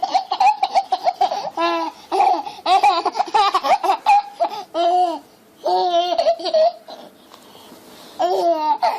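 A baby laughing in several bouts of high-pitched laughter, with short pauses between them and a longer pause near the end before one last burst.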